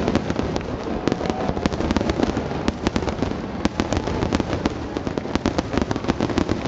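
Aerial fireworks bursting in a dense, rapid barrage, with many sharp bangs and crackles every second.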